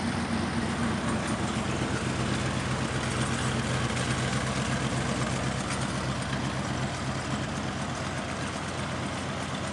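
Jaguar XJ-S engine idling steadily at its tailpipe, with no revving.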